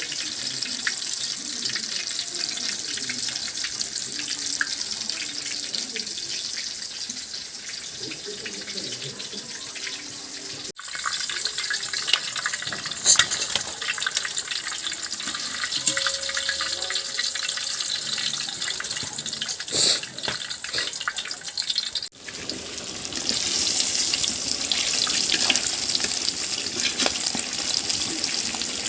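Coated chicken pieces deep-frying in oil on a low flame: a steady sizzling hiss with scattered crackles and pops.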